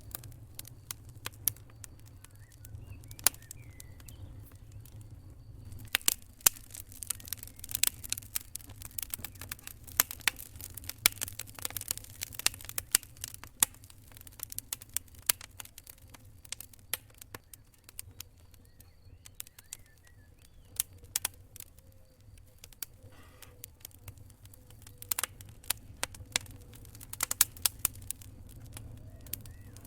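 Campfire burning, with wood crackling and popping in irregular sharp snaps over a low steady rumble of the fire; the pops come thickest in stretches a few seconds long. A faint steady high trill of crickets sounds behind the fire.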